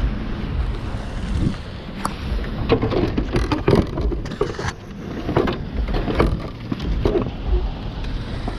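Road traffic noise with wind on the microphone, broken by scattered knocks and clatter.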